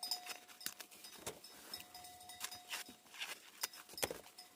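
A series of irregular sharp knocks and clicks, roughly one every half second to second, over a faint steady high tone.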